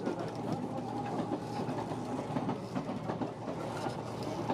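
Kintetsu electric train running at speed, heard from inside the passenger car: a steady rumble of wheels on rails with a scatter of sharp clicks and clatter from the track.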